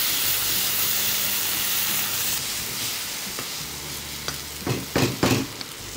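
Shallots, onion and chopped tomato sizzling in oil in a steel kadai while a wooden spatula stirs them, a steady frying hiss. It eases a little later on, and a few louder strokes of the spatula against the pan come near the end.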